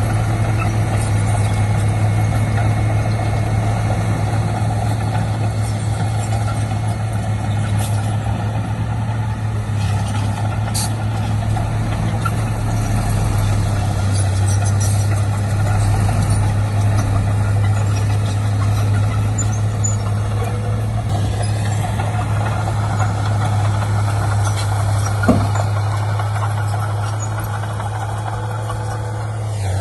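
Diesel engine of heavy earthmoving machinery running steadily with a constant low drone, with one short sharp knock about 25 seconds in.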